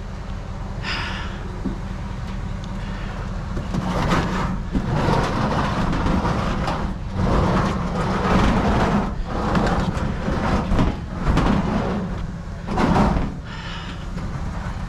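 A series of scraping, sliding noises from something heavy being shoved and dragged, over a steady low rumble.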